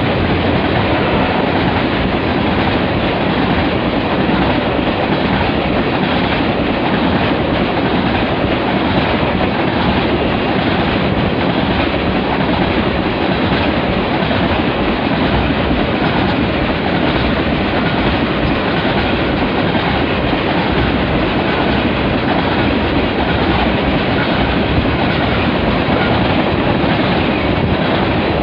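Freight train of railroad tank cars rolling past at close range: a loud, steady rumble of steel wheels running on the rails.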